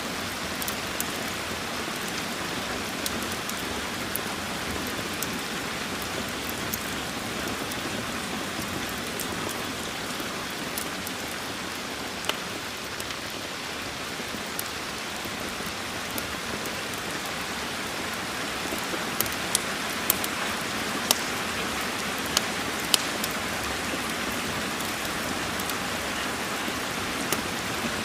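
Steady rain with scattered sharp crackles from a wood fire, several of them close together about two-thirds of the way in.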